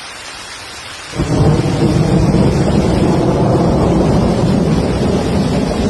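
Rain hissing steadily, then about a second in a sudden loud clap of thunder that rolls on as a deep, continuous rumble.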